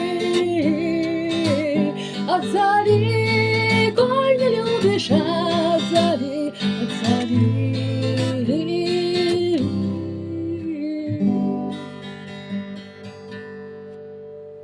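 Singing over strummed acoustic guitar, the voice holding long wavering notes; the voice stops about ten seconds in and the guitar's last chord rings and fades out.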